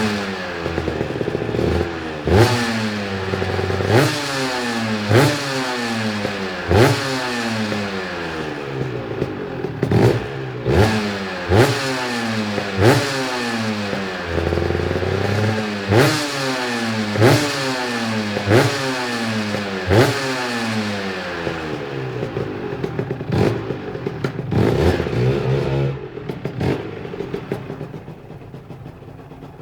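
Aprilia RS 125's single-cylinder two-stroke Rotax engine, just started, revved in repeated throttle blips. Each blip jumps up sharply and its pitch falls back down, about one a second. Near the end it settles back to a quieter, steady idle.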